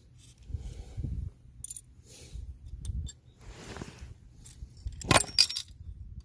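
Metal parts being handled and set down: low bumps with several light clinks, then a louder ringing metal clatter about five seconds in.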